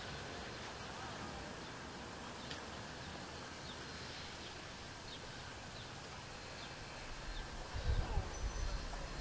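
Faint outdoor ambience with a small bird chirping, short high calls about a second apart. A low rumble comes in near the end.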